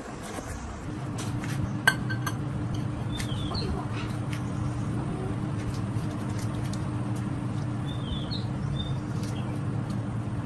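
A steady low motor or engine hum comes up about a second in and runs on, with a sharp click near two seconds. Birds chirp briefly twice over it.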